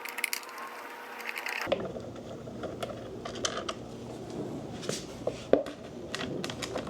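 Hand tools and bolts clicking and clinking against metal as a dirt bike's skid plate is unbolted, in irregular light knocks with a sharper clank about five and a half seconds in.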